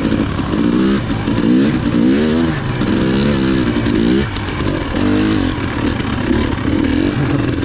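Dirt bike engine revving up and down several times as the throttle is opened and closed while riding.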